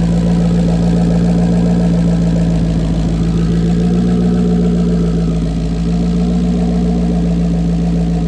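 Turbocharged Ford Mustang S550 engine with an ON3 single-turbo kit idling steadily on its base tune, shortly after its first start.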